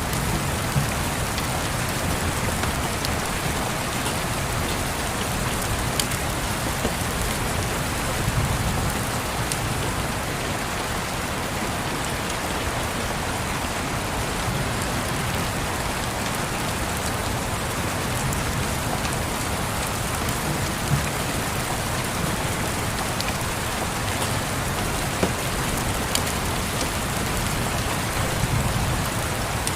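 Steady rain, with a few sharp crackles from a wood fire scattered through it. Distant thunder rumbles low twice, about a third of the way in and near the end.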